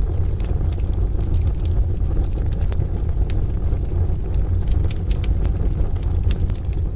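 Wood fire in a stove crackling, with frequent irregular sharp pops, over a steady deep rumble.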